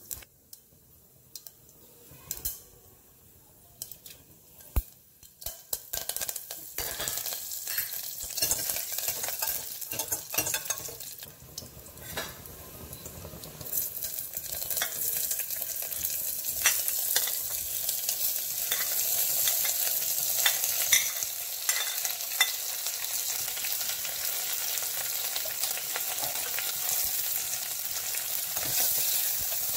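Tempering seeds frying in hot oil in a steel pressure cooker: at first a few scattered pops and crackles, then, about halfway through, when onion, tomato and carrot go in, a steady dense sizzle that holds to the end.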